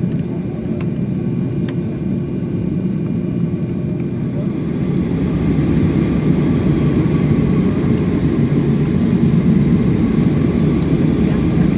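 Cabin noise of a Boeing 757-200 with its jet engines running: a steady low rumble under a thin high whine, with a few light clicks early on. The rumble grows louder about five seconds in.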